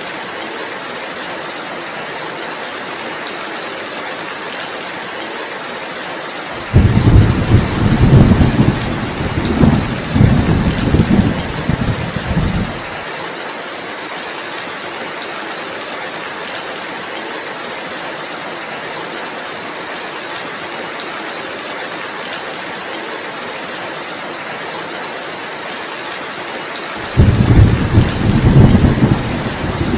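Steady heavy rain hiss with two loud, low thunder rumbles. The first starts about seven seconds in and lasts some six seconds; the second starts near the end.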